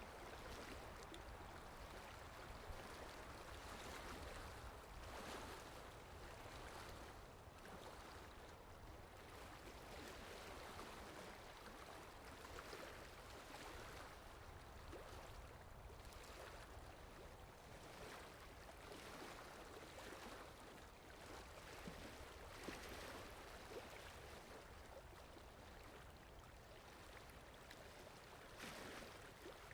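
Faint running water, a steady babbling stream that gently swells and fades, played as a water sound effect.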